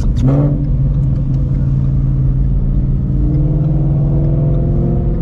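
Shelby GT350's 5.2L Voodoo flat-plane-crank V8, breathing through long-tube headers, an X-pipe and a Borla catback exhaust, running at low revs on light throttle. A brief surge in revs comes right at the start, and the pitch steps up slightly about three seconds in.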